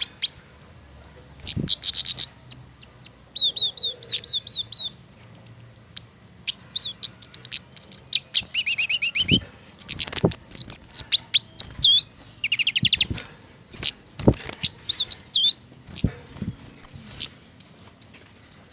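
A kemade (cici geni) songbird singing busily: a fast, unbroken run of high chirps, short trills and sharp sweeping calls. A few dull low thumps come in the middle.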